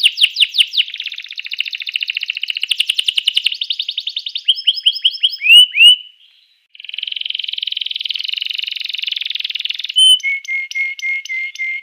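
Domestic canary singing: fast repeated trills and buzzy rolls, with a short break about six seconds in and a run of evenly spaced, steady notes near the end.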